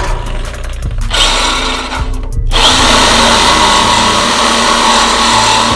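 Saw cutting through a Ford F-250's thick steel exhaust pipe at the catalytic converter, a loud harsh grinding that breaks off briefly twice.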